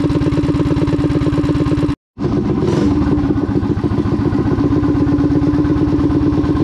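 Mini bike's small single-cylinder engine, fitted with a newly tuned Wildcat WC22 carburetor, running steadily and evenly, a sign that the carb is dialed in. The sound cuts out completely for a split second about two seconds in, then the engine is heard running again.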